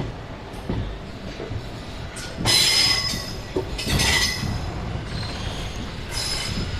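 Passenger train rolling slowly into a station, the coaches rumbling steadily, with high metallic squeals from the wheels on the rails. The squeals come twice, strongly at about two and a half and four seconds in, and once more, fainter, near the end.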